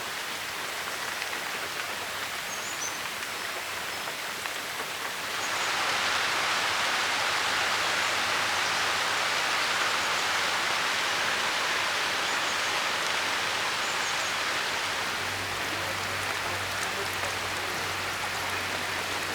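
Steady rain falling, growing heavier about five seconds in.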